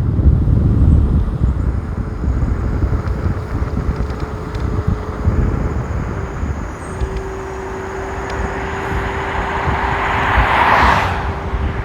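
Steady low wind rumble on the microphone while riding an electric scooter in the rain. Near the end a car passes on the wet road, its tyre hiss swelling and fading.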